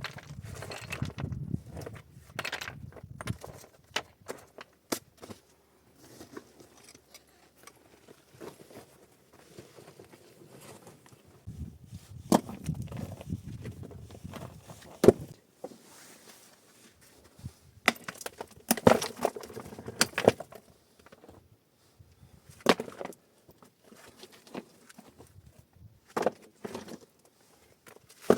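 Irregular sharp knocks and cracks, some single and some in quick clusters, with stretches of low rustling in between.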